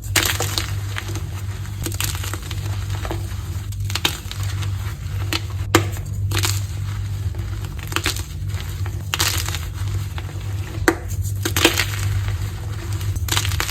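Blocks of dyed gym chalk being crushed, giving irregular dry crunches about once a second over a steady low hum.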